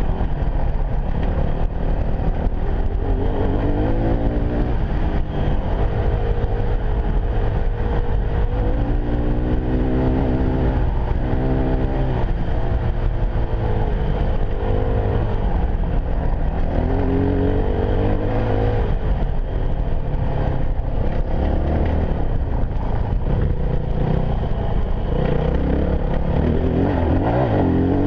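Yamaha WR250F enduro motorcycle engine running under way, its pitch rising and falling again and again as the throttle is worked, over a constant low rumble.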